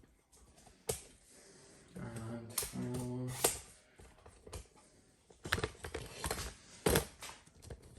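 Camera tripod being raised: clicks, knocks and rattles of its leg locks and telescoping sections being handled and extended, with a short low pitched creak or hum about two to three seconds in.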